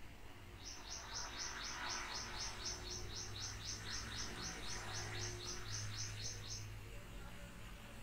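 A bird chirping in a fast, even series of short high chirps, about four a second, which stops a little before the end. A faint low hum runs underneath.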